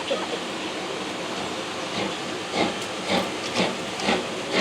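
Steam locomotive hissing steadily, then from about halfway its exhaust beats begin, about two chuffs a second, as it starts to pull away.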